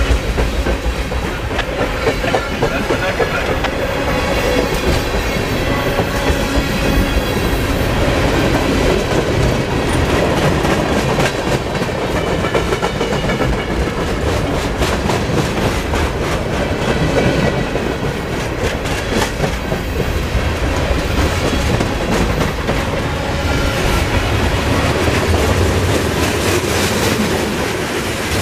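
A CSX freight train's cars rolling past close by: a steady loud rumble of steel wheels on rail with a rapid, continuous clickety-clack.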